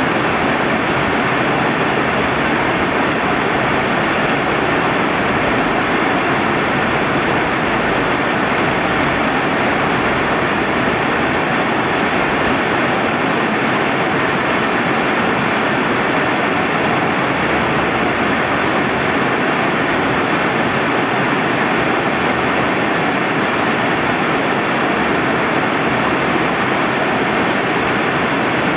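Steady rain falling by a flowing river: an even, unbroken hiss of water.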